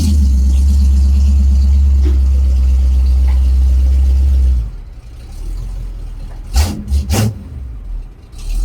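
Monster truck engine running loud and low, dropping away abruptly about four and a half seconds in. It is followed by quieter rumble and a few short thumps.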